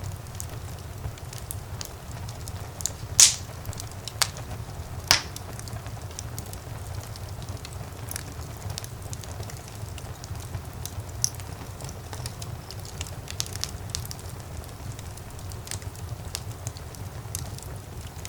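Wood fire burning in a fireplace: a steady low rumble of the flames with scattered crackles, and two loud pops about three and five seconds in.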